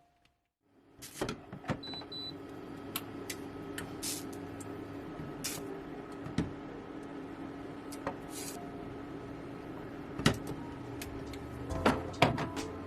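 A small motor or fan running with a steady hum, with scattered light clicks and knocks over it.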